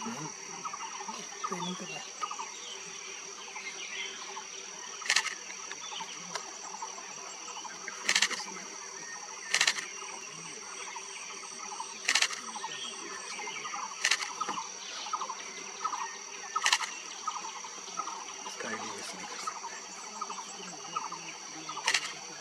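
Tropical forest ambience: a steady high-pitched insect drone with many small bird chirps. About seven sharp, loud clicks stand out at irregular intervals.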